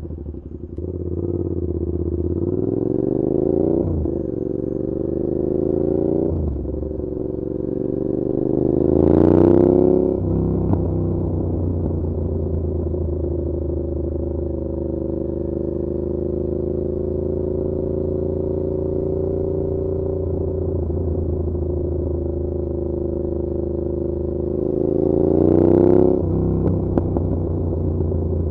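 Suzuki SV650's V-twin through an SC Project aftermarket exhaust, ridden. The engine note climbs and drops at two quick upshifts in the first seven seconds. It revs hardest around nine seconds and then backs off. A long steady cruise follows, then another hard pull near the end before easing off.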